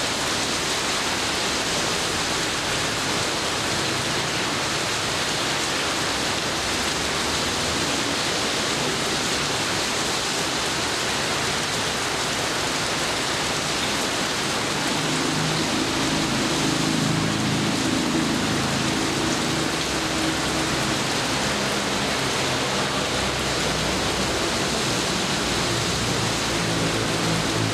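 Steady heavy rain pouring down. A low rumble swells in about halfway through and runs on.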